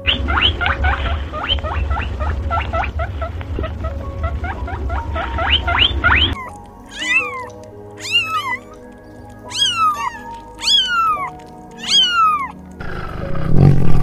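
A kitten mewing five times, each mew high and falling, over background music. Before the mews there is a quick run of rising chirps over a low rumble. Near the end a tiger's low growl sets in.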